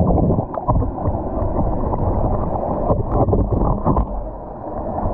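Water sloshing and splashing, with short splashes scattered through, over a heavy low rumble of wind on the microphone.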